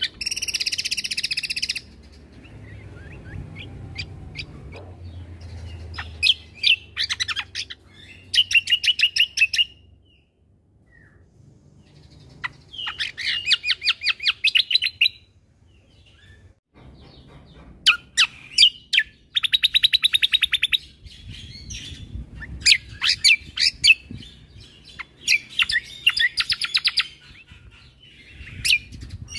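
Cucak kombo (kecial kombo) singing in bursts of rapid, fast-repeated trilled notes, each burst lasting one to three seconds, with short pauses and single chirps between them.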